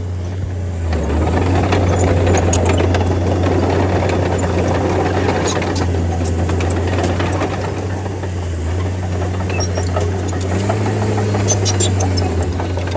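Bulldozer's diesel engine running steadily under work, its note swelling about a second in and easing near the end, with scattered sharp metallic clicks and clanks.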